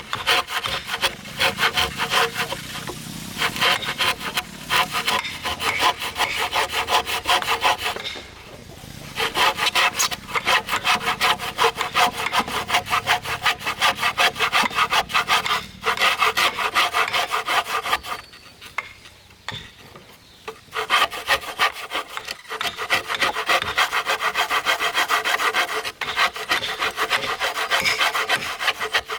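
A saw cutting through wood in rapid, even back-and-forth strokes. It works in several long runs, stopping briefly about eight seconds in, again just before the middle, and for a few seconds about two-thirds of the way through.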